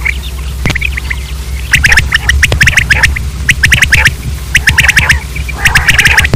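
Common quail calling: repeated bursts of rapid, sharp notes, about one burst a second.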